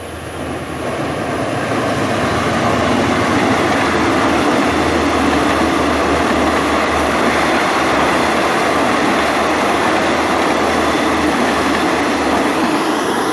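A train running on the rails: a steady rush of wheel and engine noise with a low hum underneath. It swells over the first couple of seconds and eases off near the end.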